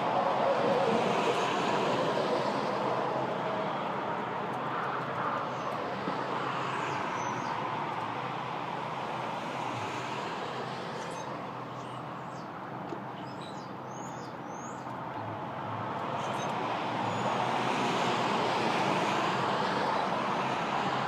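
Road traffic passing, a broad hiss that swells and fades as vehicles go by, loudest near the start and again near the end. Faint small bird chirps come through in the quieter middle.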